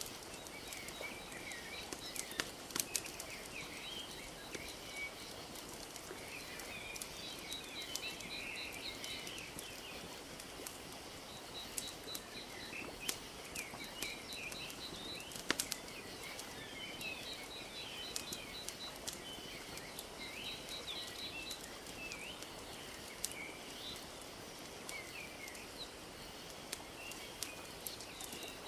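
Wood fire crackling with scattered sharp pops over a steady wash of lake water lapping, with birds chirping and a rapid high trill that recurs every few seconds.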